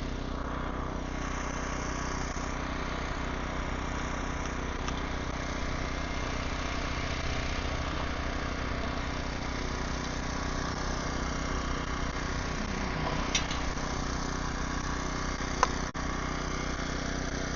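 An engine idling steadily, with a couple of brief clicks in the second half.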